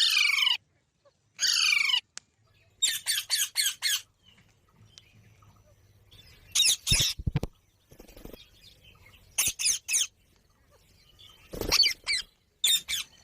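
Green ringneck parrot calling: two shrill, downward-sliding screeches at the start, then quick runs of three or four sharp squawks with pauses between, and a few low thumps around the middle.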